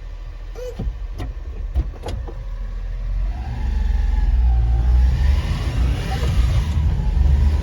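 1991 Honda Acty kei truck's small three-cylinder engine running on the move, getting louder and rising in pitch as it accelerates from about three seconds in. A few sharp clicks come in the first two seconds.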